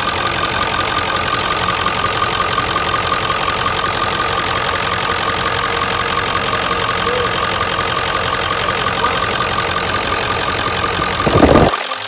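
1996 Ford F-350's 7.3 L Power Stroke turbo-diesel V8 idling with a steady diesel clatter, running so the newly replaced fuel line can be checked for leaks. Near the end there is a brief loud low surge, then the deep part of the sound drops away.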